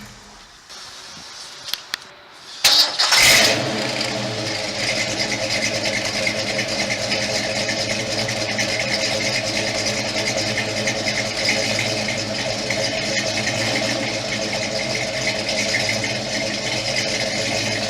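1969 Ford Mustang Mach 1's V8 shuts off, leaving a couple of clicks. About three seconds in it is started again, catching with a brief burst of revs, then settles into a steady idle.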